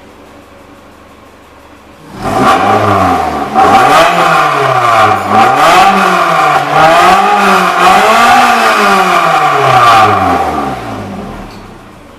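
Toyota 3S-GE BEAMS 2.0-litre twin-cam four-cylinder engine running on a test stand, revved up and down about five times, its pitch rising and falling with each blip. It comes in suddenly about two seconds in and sinks back to a low level near the end.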